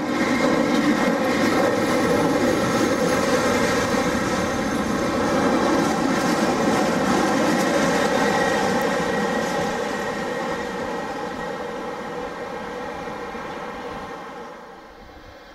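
Freight wagons of a departing freight train rolling past close by on the rails, a steady rolling noise with a ringing whine in it. It fades from about ten seconds in as the end of the train draws away, and drops off sharply near the end.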